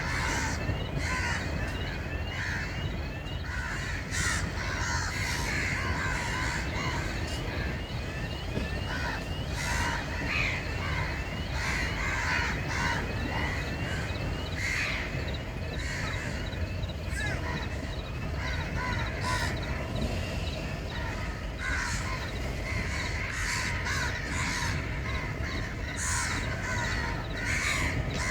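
A large flock of birds calling continuously, many short calls overlapping in a dense chatter.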